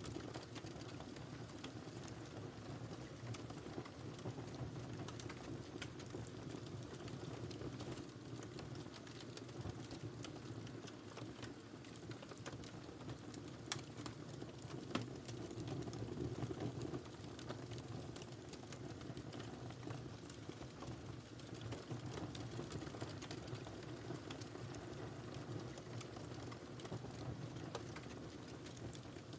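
Wood fire crackling in a fireplace: a steady low rumble and hiss of the flames with scattered small pops and snaps, two sharper pops about halfway through.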